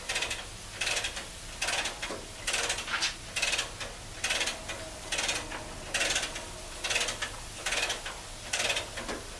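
Come-along (hand ratchet hoist) worked stroke by stroke, a burst of ratchet-and-pawl clicking about once a second, as it lets the motor down onto its mount.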